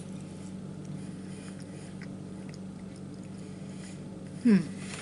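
A person chewing a spoonful of soft pie, with faint small mouth clicks over a steady low hum. A click comes as the spoon goes in at the start, and about four and a half seconds in there is a brief vocal sound that falls in pitch.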